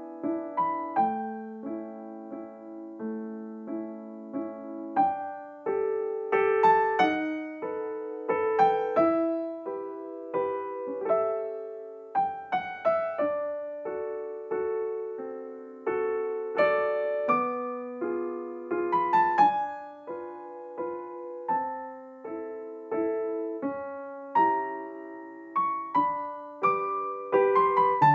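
Background music: a soft piano melody with sustained lower notes, each note struck and fading.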